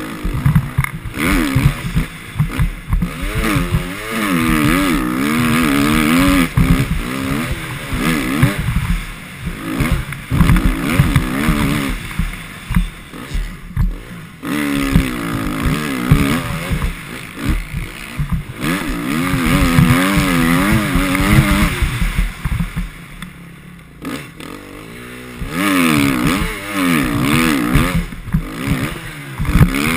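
Motocross bike engine running hard around the track, its note rising and falling over and over as the throttle opens and closes, with quieter off-throttle stretches and a rough low rumble throughout.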